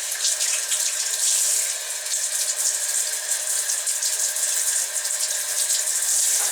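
Tap water running steadily and splashing.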